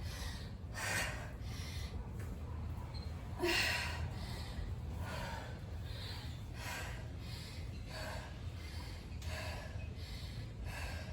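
A woman breathing hard during strenuous squat-and-lunge reps, a loud breath about every second, the strongest about a third of the way in. A steady low rumble runs underneath.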